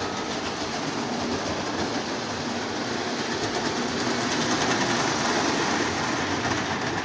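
Lionel Santa Fe diesel model locomotive with two motors running and pulling a string of boxcars on the track: a steady motor whir and wheel rumble that slowly grows louder.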